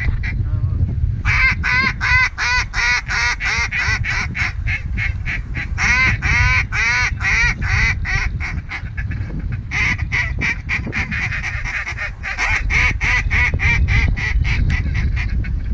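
Rapid, repeated goose honks, about three or four a second, in several bursts with short breaks, over a steady low rumble of wind on the microphone.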